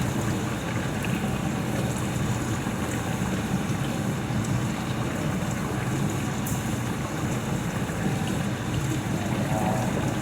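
A household appliance running with a steady low whirring rumble.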